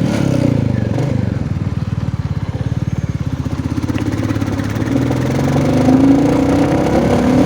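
Royal Enfield motorcycle engine running while riding, its exhaust pulses a steady beat; the revs drop in the first second and climb over the last few seconds as the bike accelerates.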